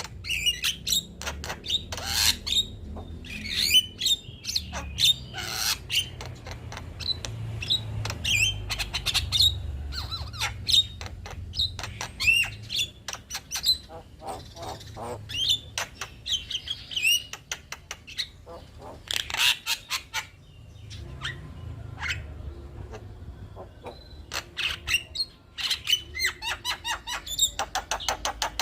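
Male Javan myna (jalak kebo) singing a long, busy song of sharp clicks, harsh squawks and short whistled notes in rapid runs, with brief pauses between the runs, over a low background rumble.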